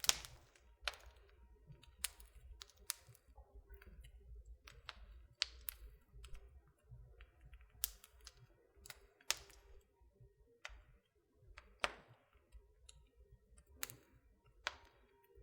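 Wood fire in a fireplace crackling: irregular sharp pops and snaps, a dozen or so, over a faint low rumble.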